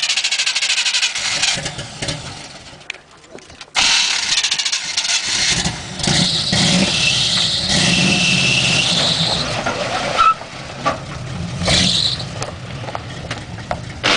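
Off-road truck engine running, with loud rushing noise over it; the noise drops away for a moment and comes back suddenly about four seconds in, and a steady low engine hum builds under it from about five seconds.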